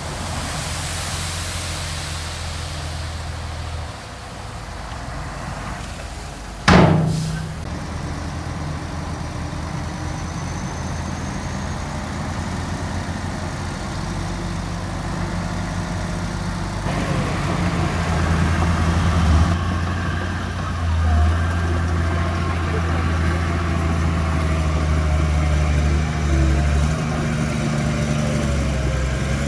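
Diesel engines of heavy earthmoving machinery running steadily, with one loud bang about seven seconds in.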